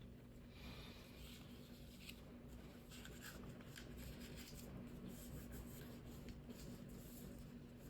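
Faint rustling and crinkling of origami paper being folded and creased by hand, in short irregular bursts over a low steady hum.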